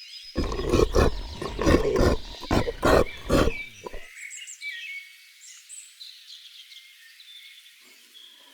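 A large animal giving a loud series of low, hoarse, rasping calls, about two a second for some three and a half seconds, over background birdsong and insects. Near the end a different pitched call begins, falling in pitch.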